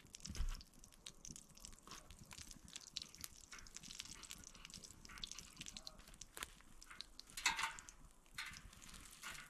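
Bacon fat and butter sizzling and spitting in a frying pan, a faint, dense, irregular crackle with a louder spatter near the end. There is a low thump about half a second in.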